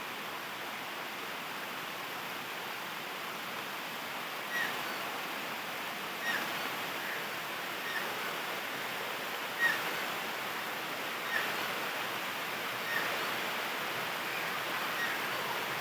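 Steady rain falling, with a short high chirp repeating about every second and a half from about four seconds in.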